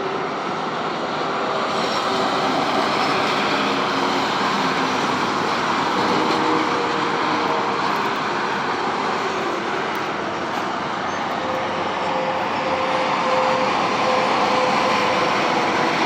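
Steady vehicle noise, an even wash of sound with faint engine tones that drift slowly in pitch.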